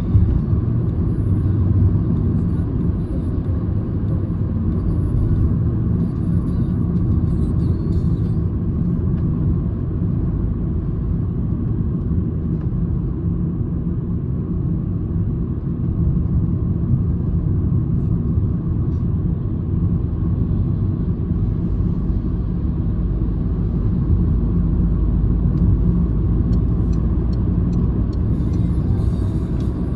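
Citroen C-Elysee's 1.2-litre three-cylinder PureTech engine and tyre rumble heard from inside the cabin while driving at a fairly steady pace, a continuous low rumble with no sharp revving.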